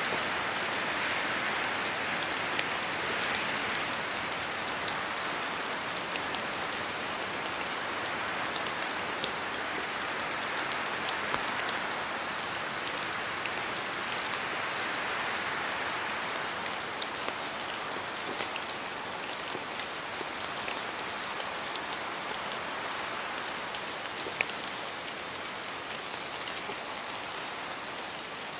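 Steady rain falling, a dense even hiss sprinkled with many small sharp drop ticks, swelling and easing gently over several seconds.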